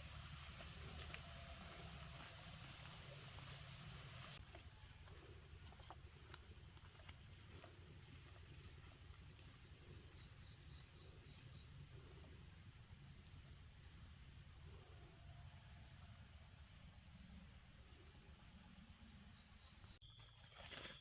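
Faint, steady high-pitched insect drone that cuts off suddenly about a second before the end.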